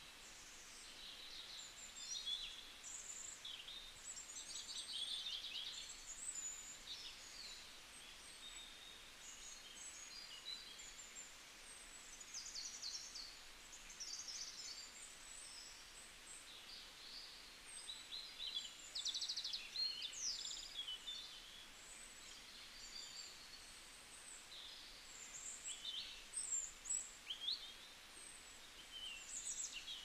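Small birds chirping and trilling: many short, high calls overlapping one another, some as quick rattling trills and some as fast downward slurs, over a faint steady hiss of outdoor background noise.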